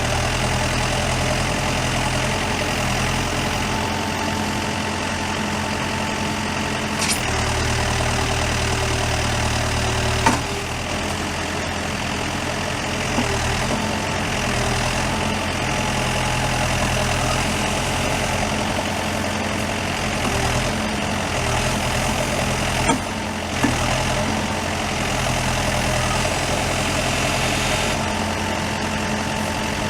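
2006 Terex 760B backhoe's diesel engine running steadily, its note shifting a couple of times as the machine works. A few sharp knocks sound over it, the loudest about ten seconds in.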